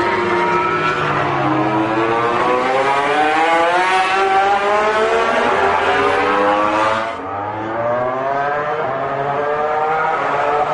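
MotoGP racing motorcycle engines running at high revs, the pitch climbing and falling as they accelerate and ease off. The tone changes abruptly about seven seconds in.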